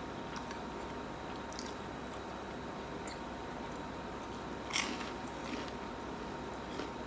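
Close-up eating sounds: quiet chewing with small wet mouth clicks, and one louder smacking click about five seconds in, over a faint steady tone.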